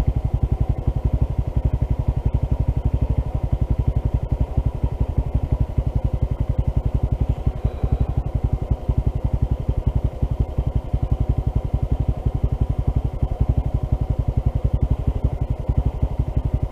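Honda CT125's single-cylinder engine running steadily at low revs in gear, a fast even train of exhaust pulses. It is held off the power, so the engine, damaged by a faulty piston and misaligned valve, is not making its metallic knock.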